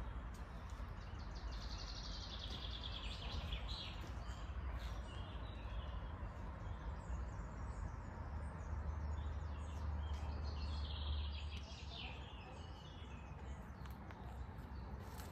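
Outdoor ambience with a songbird singing: two runs of rapid notes, each sliding down in pitch, a couple of seconds in and again past the middle, over a steady low rumble.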